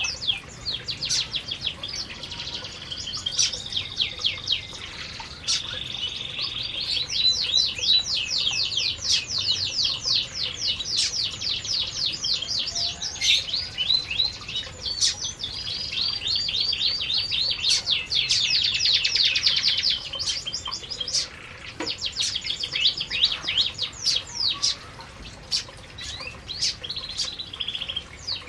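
Domestic canaries singing: long, almost unbroken runs of rapid, high trills, one run after another, with scattered sharp clicks among them.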